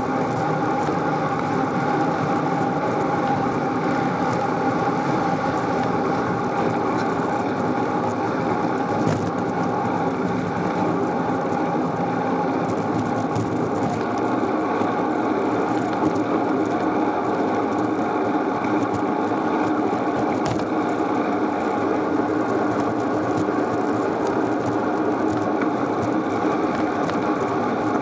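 Steady rolling noise of a bicycle in motion: an even hum carrying several steady tones, with no pauses.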